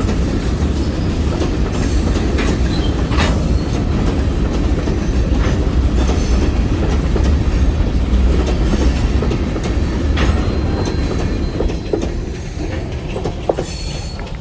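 Freight train rolling past close by: a heavy, steady rumble of the cars with wheels clicking over rail joints at uneven intervals. A thin high wheel squeal comes in near the end as the sound begins to fade.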